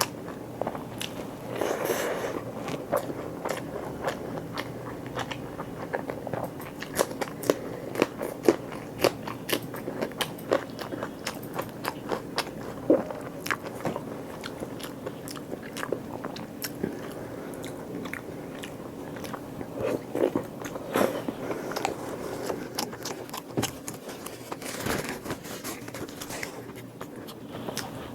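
Close-miked eating: a person biting and chewing food, with many short sharp mouth clicks, the loudest of them about a third of the way in.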